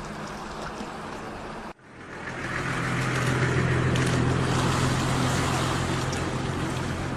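An engine running steadily with a low hum. The sound cuts out briefly about two seconds in, then comes back louder with a more hissing rush.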